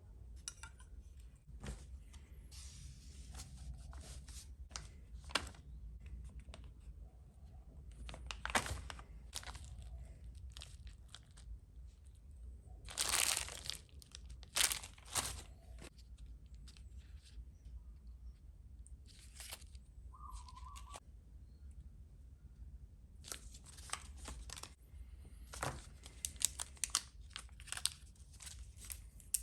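Small parts and packaging being handled during kit assembly: scattered clicks and light taps with crinkling rustles, the loudest a short rustle about halfway through, and a brief squeak-like tone about two-thirds of the way in.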